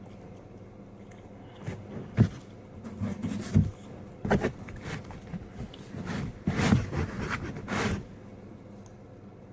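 Person eating pizza: irregular crunching, clicking and smacking mouth sounds as a slice is bitten and chewed, from about two seconds in until about eight seconds in.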